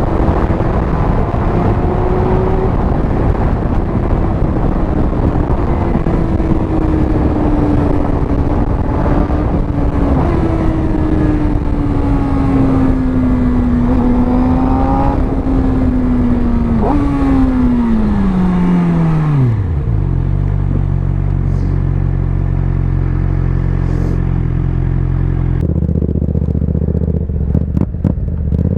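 Sport motorcycle with an aftermarket exhaust cruising at a steady, slowly falling engine speed over a rush of wind. About two-thirds of the way through, the engine note drops away as the bike slows to idle. It idles steadily, then starts to rev up again at the very end.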